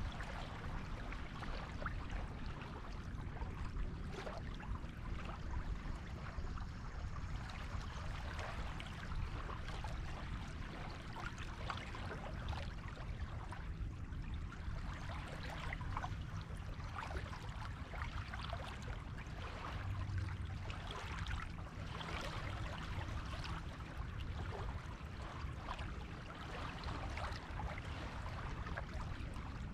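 Surf on a beach: waves washing in and draining back in a continuous wash with no sharp breaks.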